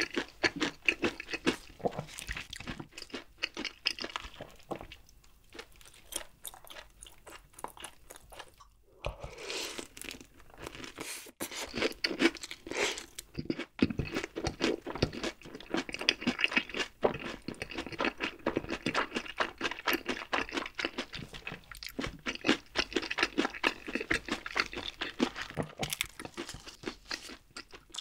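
Close-miked chewing of crispy glazed fried chicken: rapid, dense crunches of the coating. The crunching thins out for a few seconds about a quarter of the way in, then picks up again thick and steady.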